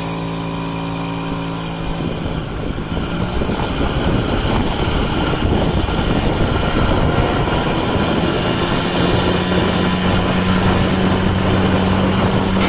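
TVS Champ 50cc two-stroke moped engine running: steady for the first two seconds, then louder and rougher with a rushing noise, and settling into a steady drone in the second half.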